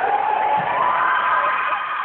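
Crowd of spectators cheering and yelling, with several long held shouts rising in pitch about half a second in.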